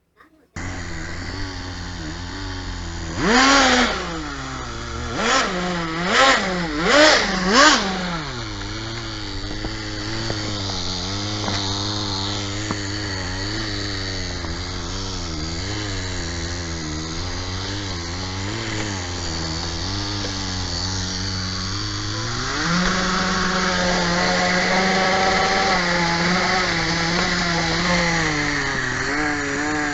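Small nitro engine of a Kyosho Nitro Blizzard radio-controlled model, revved in several quick throttle blips a few seconds in, then running at a steady, slightly wavering idle. About two-thirds through it rises to a higher, louder steady speed and drops back near the end.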